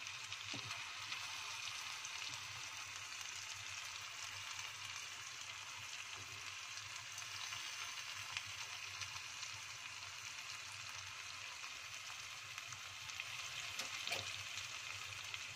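Tofu cubes in a thick chili sauce sizzling steadily in a wok, with a few faint clicks.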